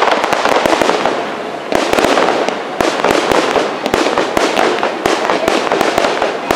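Aerial fireworks going off in a dense barrage of rapid cracks and pops, with fresh loud volleys starting a little under two seconds in and again near three seconds.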